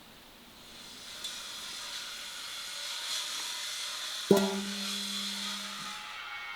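A hiss that swells up about a second in. Near the middle comes a single sharp knock that rings on at a low pitch for about a second and a half.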